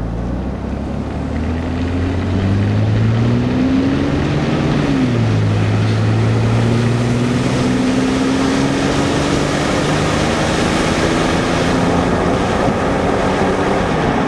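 Car accelerating hard with road and wind noise. The engine note climbs, drops about five seconds in as the transmission shifts up, then climbs slowly again.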